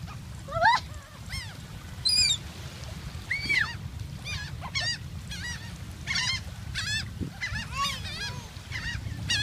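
A flock of seagulls calling over one another: many short, repeated, squealing calls that overlap throughout.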